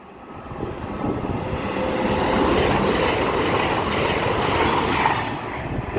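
Avanti West Coast Class 805 Evero bi-mode train (805006) passing through the station at speed. The rush of wheels and body builds over the first couple of seconds and then holds steady.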